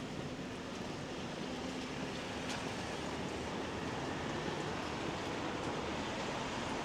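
Wet-street ambience in light rain: a steady hiss of rain and traffic on a wet road, with a faint low engine hum in the first few seconds and the hiss swelling a little near the end.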